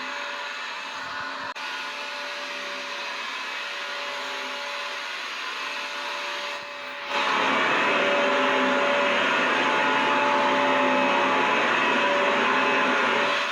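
Vacuum cleaner motor running with a steady whooshing hiss and faint hum tones. It gets noticeably louder about halfway through and then holds steady.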